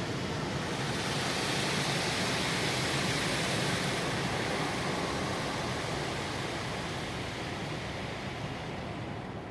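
Automatic car wash spraying water over the car, heard from inside the cabin as a steady hiss that builds over the first couple of seconds and fades toward the end.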